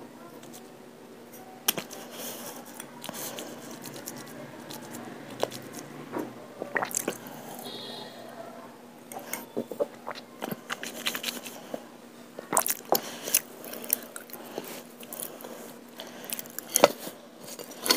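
Close-up mouth sounds of chewing multani mitti (Fuller's earth) clay paste: wet squishing, with scattered sharp clicks and crunches that come thicker in the last few seconds.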